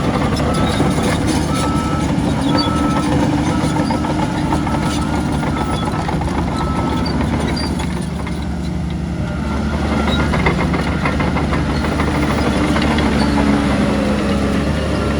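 Heavy diesel earthmoving machinery running steadily, with a reversing alarm beeping in regular short beeps through the first half. The engine eases off briefly past the middle and then builds again.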